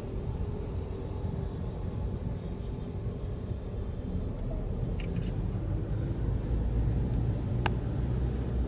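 Low rumble of motor vehicles in traffic, growing louder in the last few seconds, with a few faint clicks and one sharp click about three quarters of the way through.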